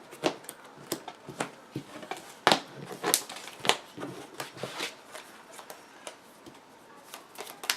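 Vanguard trading cards being handled and set down on a table: a string of irregular light taps and slaps.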